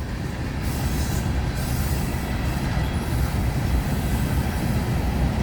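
Loaded coal train's freight cars rolling past at speed: a steady rumble of steel wheels on rail.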